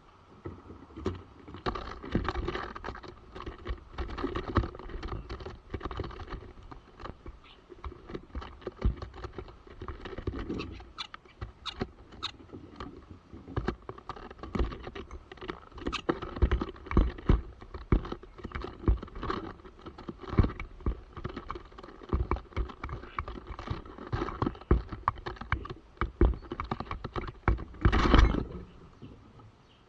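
Starlings tapping and scratching on a wooden DIY birdhouse: irregular rapid taps, knocks and scrabbling, with a louder burst of scuffling near the end.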